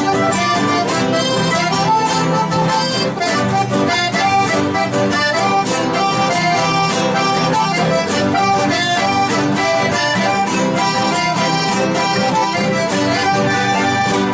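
Live chamamé music: accordion playing the melody over strummed guitar accompaniment, at a steady, lively rhythm.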